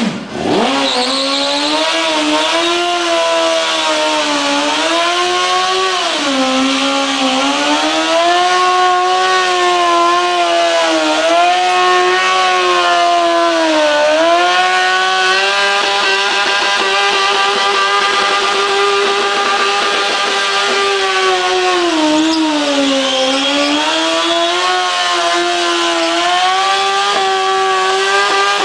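Vehicle engine held at high revs during a burnout, its pitch dipping and climbing back every few seconds, with the steady hiss of a spinning tyre over it.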